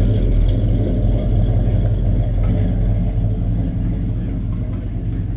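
A car's engine running at low speed with a steady, deep rumble, easing off slightly toward the end.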